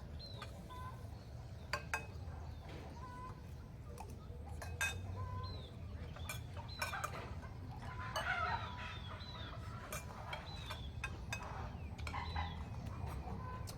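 Chickens clucking, with many short, high chirps that drop in pitch, over a steady low rumble. Scattered sharp clicks run through it.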